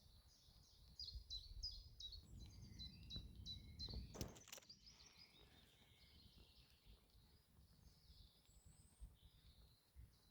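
A small songbird calling in a rapid series of short high chirps, about four a second, fading to softer scattered chirps later. A low rumble sits under the first half, and a single sharp click comes about four seconds in.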